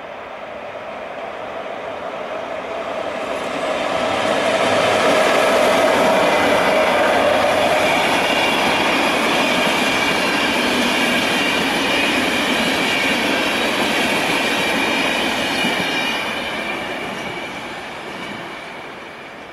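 Passenger train of locomotive-hauled coaches passing close by. Its rolling noise builds over about four seconds, holds, then fades away near the end. A high, steady squeal of wheels on rail runs through the middle of the pass.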